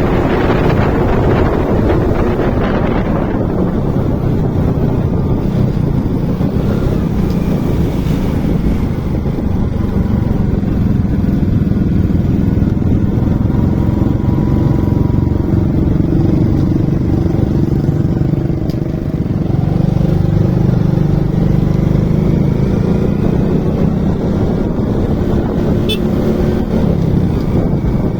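Motorcycle engine running while riding, a steady low drone that holds through, with wind rushing over the microphone in the first few seconds.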